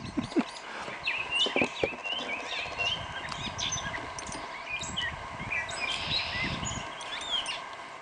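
Several songbirds chirping and calling in quick, varied notes. A few sharp knocks in the first half second, with a low rumble underneath that fades about seven seconds in.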